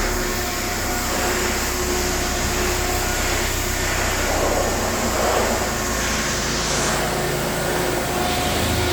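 Mercedes-Benz OM651 four-cylinder turbo-diesel engine idling steadily.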